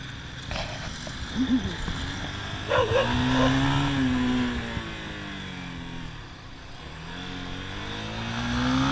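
A vehicle engine revving up and easing off twice, its pitch rising and falling. Two short sharp cries sound in the first few seconds, louder than the engine.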